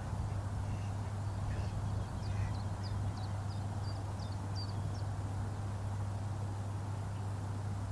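A small bird chirping a quick run of short, high notes for a few seconds, over a steady low hum and outdoor background hiss.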